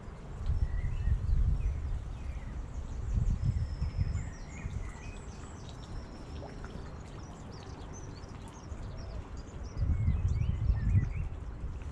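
Small birds chirping and singing in short, quick phrases, over a low rumble that swells three times.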